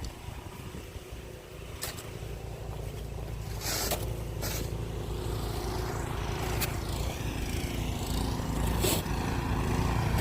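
An engine running steadily and growing gradually louder, with several short scrapes or knocks over it.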